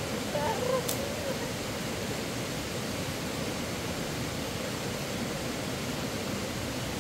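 Steady rushing noise with no pitch to it, even and unbroken, with a few faint brief pitched sounds in the first second.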